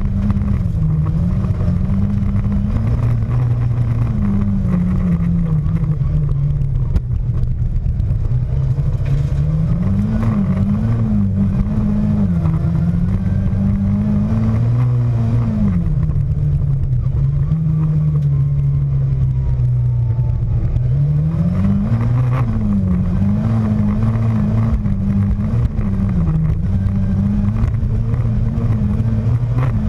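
Škoda Felicia rally car's engine driven hard, heard from inside the cabin: the revs climb and drop again and again through gear changes and corners, holding steady for several seconds midway.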